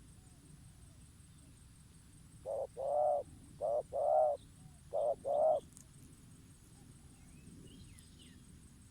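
Decoy (pikat) dove cooing: three two-note coos in a row, each a short note followed by a longer one.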